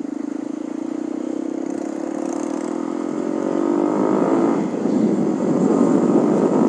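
Honda CB150R's single-cylinder engine accelerating under a riding motovlogger, its note climbing steadily for about four seconds. It dips briefly, then comes back louder and rougher, mixed with rushing noise.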